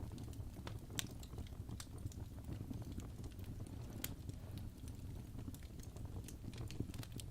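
Fireplace fire crackling: irregular sharp snaps and pops over a low, steady rumble.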